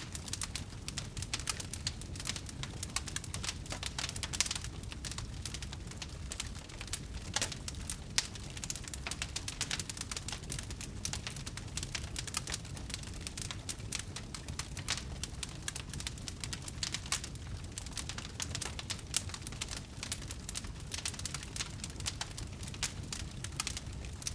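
Wood fire burning in a fireplace, crackling continuously with many quick irregular pops over a low steady rumble of flames.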